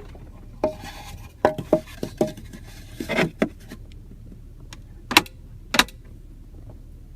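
Clicks, knocks and a short rubbing clatter from the center console storage compartment and its lid being handled, ending in two sharp latch-like clicks, over a steady low hum.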